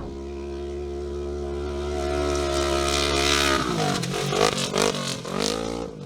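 Off-road race car engine running at a steady pitch, then revving up and down repeatedly from about three and a half seconds in as the throttle is worked over rough ground.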